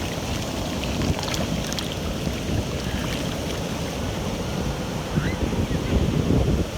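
Ocean surf washing in, with wind buffeting the microphone in a heavy low rumble.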